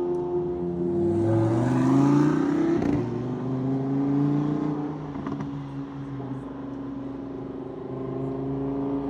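Car engines running as cars move through a car meet; one engine rises in pitch as it accelerates between about one and three seconds in, then holds a steady drone.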